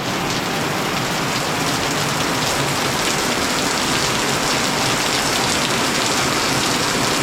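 Heavy rain pouring down steadily, a dense even wash of rain on surfaces, still getting heavier.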